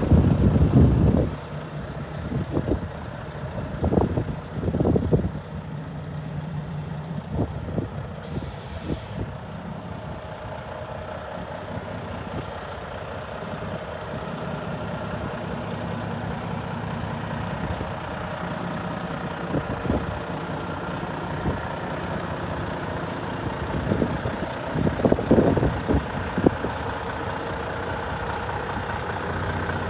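Mack Pioneer heavy truck's diesel engine idling steadily, with louder irregular bursts of noise about four seconds in and again near twenty-five seconds, and a brief hiss about eight seconds in.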